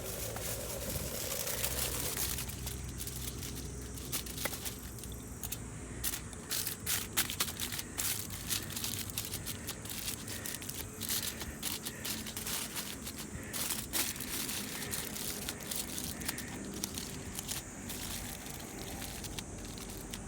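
Wood fire in a bonfire stand crackling, with irregular sharp pops and snaps over a steady low rush.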